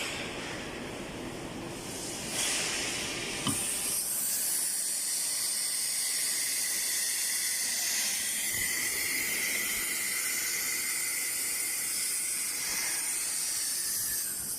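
ATC CNC router running a cutting job, its spindle and cutter giving a steady high hiss from about four seconds in, with a sharp click just before.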